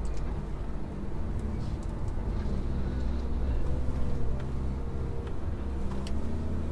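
Heavy machinery running steadily with a low drone, with scattered sharp clicks and cracks over it.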